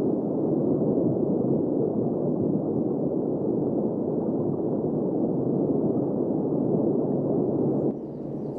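A loud, steady rushing roar with no pitch to it, which drops off suddenly to a quieter level near the end.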